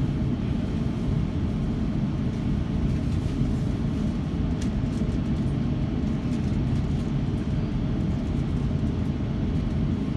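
Steady low rumble of cabin noise inside an Airbus A350-900 airliner on the ground, with its engines and air systems running.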